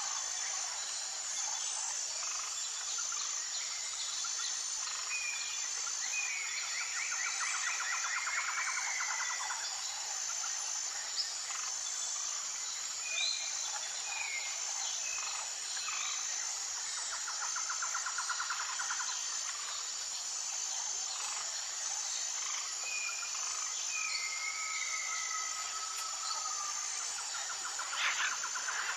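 A steady high-pitched insect chorus, rapidly pulsing, with several birds calling over it: two longer trilled phrases, one early on and one midway, and short whistled notes scattered between. There is a brief rustle or knock near the end.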